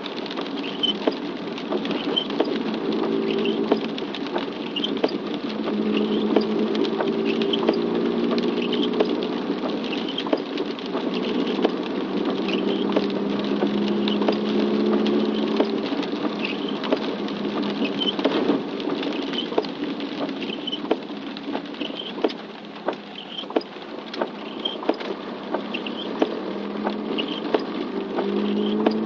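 Raindrops pattering in a dense stream of small clicks over a steady engine hum whose pitch shifts now and then.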